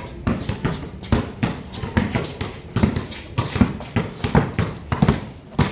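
Basketballs bouncing on a hard court and feet running, giving a quick, uneven run of thuds and slaps.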